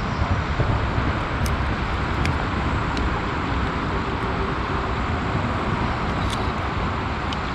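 Steady rushing of river water, an even hiss, with a few faint small clicks.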